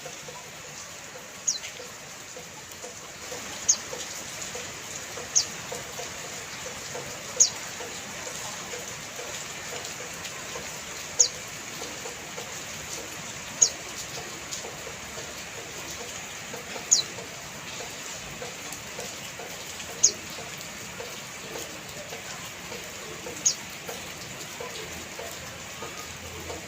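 Steady rain falling, with a bird's short, sharp, high chirp cutting through nine times, every two to four seconds.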